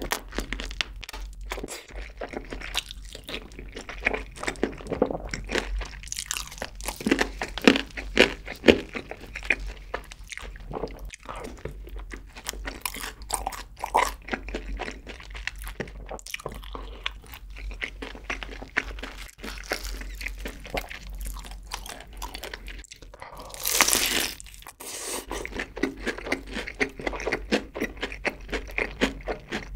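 Close-miked chewing of fried chicken: irregular crunching and crackling of the crispy crust with wet mouth sounds, and one louder rush of noise lasting about a second about three-quarters of the way through.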